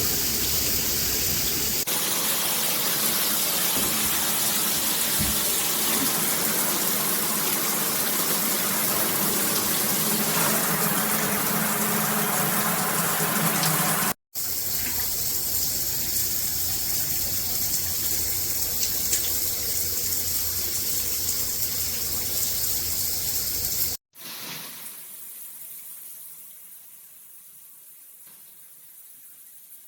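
Water spraying from a Hibbent all-metal shower head, a steady rushing of water. It breaks off abruptly twice, and after the second break it is much softer and fades away.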